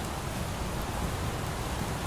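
Steady light rain: an even hiss with a low rumble underneath and no distinct events.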